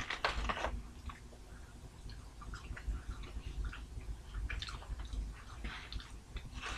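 Close-up chewing and wet mouth sounds of people eating a peanut butter and dill pickle sandwich and french fries. A cluster of crackly clicks comes in the first second, then scattered soft clicks.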